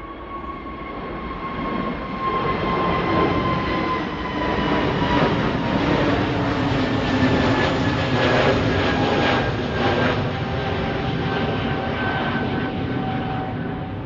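A departing airliner's engines at takeoff power, passing by and growing louder over the first few seconds. A whine in the engine noise falls steadily in pitch as the aircraft goes past.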